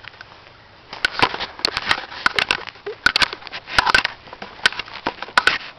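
Footsteps pushing through dry brush and leaf litter, with irregular crunching and twigs snapping, starting about a second in.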